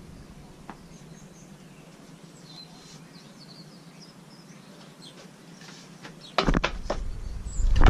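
Faint bird chirps over a quiet outdoor background. About six seconds in, loud low rumbling and a few sharp knocks start suddenly, the sound of the GoPro being jostled and handled.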